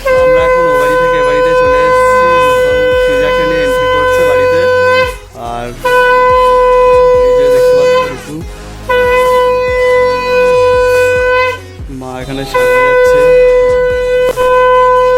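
Conch shell (shankha) blown in four long, steady, horn-like blasts with short breaths between them, the traditional Bengali sound of welcome for a newborn arriving home.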